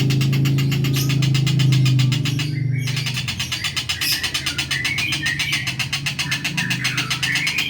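A bird calling in short chirps over a steady low motor-like hum with a fast, even pulse. The chirps come in two spells, in the middle and near the end.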